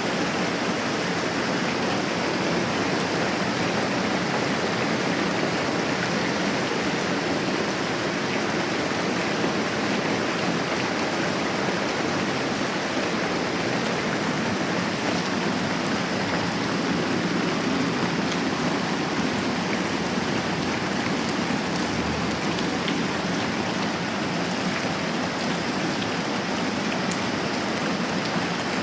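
Moderate rain falling steadily, an even unbroken hiss of drops.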